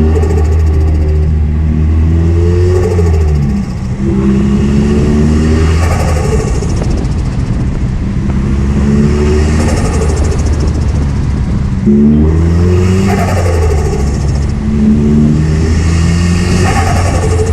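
Nissan S15 200SX's turbocharged SR20 four-cylinder through a straight-piped exhaust, accelerating hard. Its pitch climbs in repeated pulls, with short breaks and drops between them as it changes gear.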